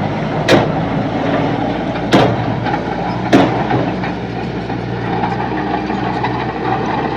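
Heavy earthmoving machine's engine running steadily, with three sharp clanks in the first half.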